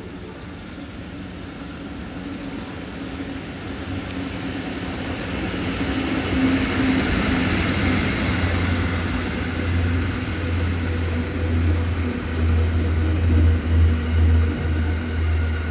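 Locomotive-hauled freight transfer train carrying Seibu 101-series railcars approaching and passing, growing steadily louder over the first half, then loud with a deep rumble and uneven surges as the cars go by.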